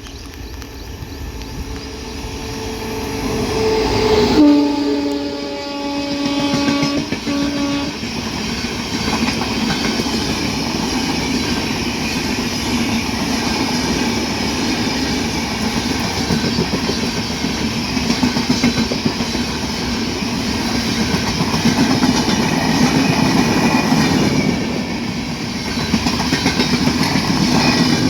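An Indian Railways express train, hauled by an electric locomotive, approaches and passes at high speed. Its horn sounds as the locomotive nears and drops sharply in pitch as it goes by about four seconds in, holding until about eight seconds in. The coaches then rush past with a steady rumble and rapid clickety-clack of wheels over rail joints.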